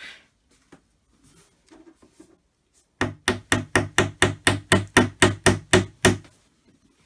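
Hammer tapping wooden dowels into the holes of a flat-pack cupboard panel: a quick, even run of about fourteen strikes on wood, roughly four or five a second, starting about three seconds in after some quiet handling.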